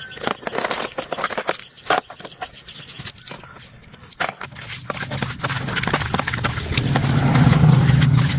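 A run of sharp clicks and knocks, like metal parts and tools being handled, then a low hum that swells from about halfway through and grows louder toward the end.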